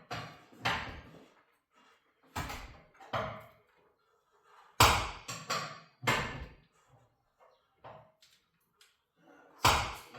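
Garage door torsion spring being unwound with winding bars: about seven sharp metal clanks at irregular intervals as the bars are shifted in the winding cone and the spring lets go of its tension, the loudest about five seconds in and near the end.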